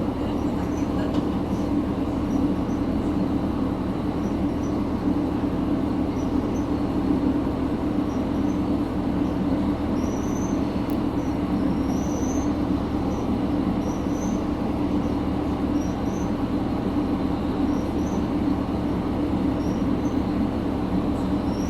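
Diesel railcar heard from inside the car: a steady running rumble throughout, with short high squeaks from the wheels every second or two.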